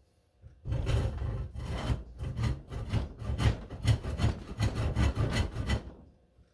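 Freshly sharpened and set hand saw cutting into a block of wood in quick back-and-forth strokes, starting about a second in and stopping near the end.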